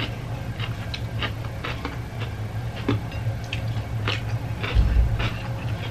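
Close-up eating sounds: wet chewing and lip smacks in short, irregular clicks, over a steady low hum, with a dull bump about five seconds in.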